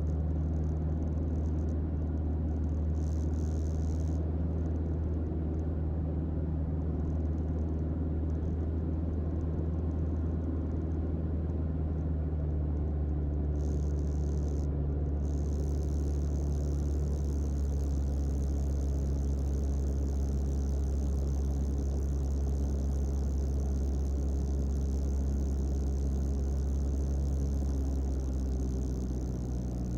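Single-engine Mooney M20J's four-cylinder Lycoming engine running steadily, heard from inside the cockpit, with its note dropping slightly lower near the end as power comes back.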